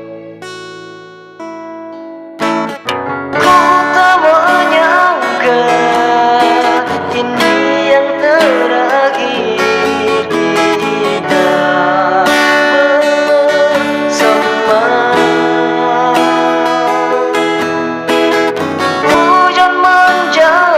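Instrumental break of a pop ballad played on a Yamaha PSR arranger keyboard. A couple of seconds of soft held chords give way about three seconds in to the full backing, with a guitar-like lead melody that bends in pitch.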